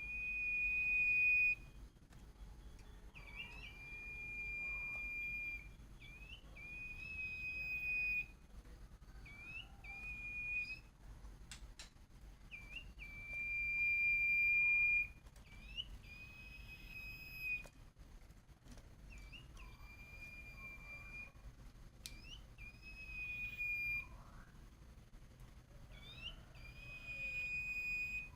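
Huýt cô songbird singing a challenge song in peak condition: repeated long, level whistles, each opening with a quick upward note, about one phrase every three seconds.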